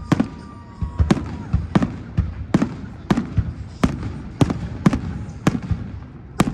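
Fireworks salute: a steady series of sharp bangs from bursting shells, about two a second, each with a short echoing tail.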